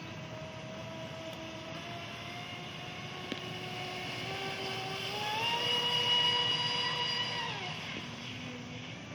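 Traxxas Spartan RC boat's brushless electric motor whining as it runs. Its pitch climbs, jumps higher about five seconds in as the throttle opens, holds at its loudest, then drops away near the end.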